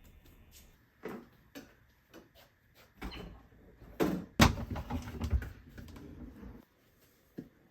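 Household handling noises: a run of separate knocks and clicks, the loudest a sharp knock about four seconds in, followed by about two seconds of scraping and rustling.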